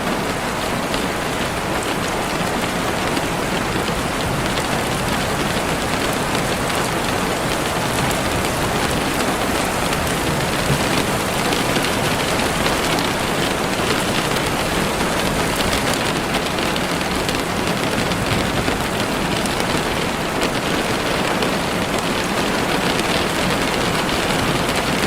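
Heavy rain falling steadily on leaves and the forest floor, a dense, even hiss with no breaks.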